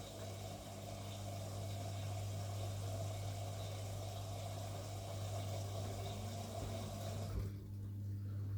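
Washing machine running: water rushing through it over a steady low hum, typical of the machine taking in or pumping water. The rushing cuts off suddenly about seven seconds in, leaving the hum.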